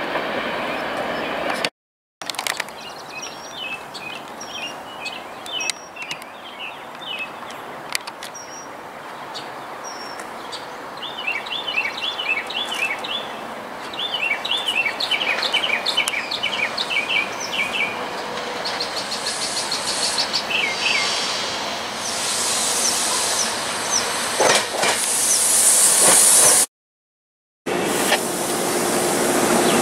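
A freight train rumbling away, cut off abruptly after about two seconds. Then songbirds chirping over a steady background, with a high hiss building from about two-thirds of the way in as an electric commuter train approaches, until it too cuts off.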